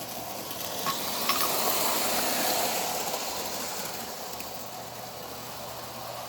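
Toy electric train running along its track, its motor and wheels getting louder for a couple of seconds as it passes close, then fading. Two light clicks about a second in.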